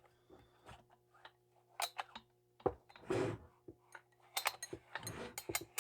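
Metal tools and chainsaw engine parts being handled on a workbench during a teardown: scattered light clinks and clicks, a short rush of noise about three seconds in, and a quick run of clicks near the end.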